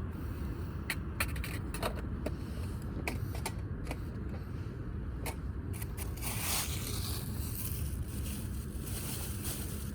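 Damp firewood burning in a wood grill, crackling with scattered snaps over a steady low rumble, with a brief rustling scrape about six and a half seconds in.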